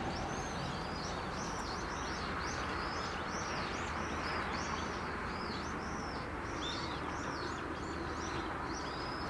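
A small bird chirping over and over, short high chirps about two a second, over a steady low outdoor background noise.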